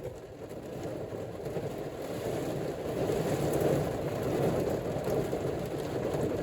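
Heavy rain falling, an even hiss that grows a little louder partway through.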